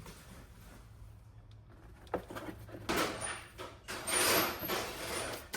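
A faint steady hum, then from about two seconds in a few knocks and longer stretches of rustling, loudest toward the end, like things being handled or moved.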